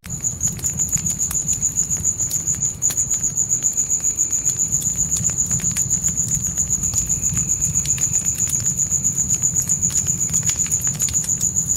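Crickets chirping in a steady, high, evenly pulsing trill over a crackling fire, with scattered sharp pops and a low rumble from the flames.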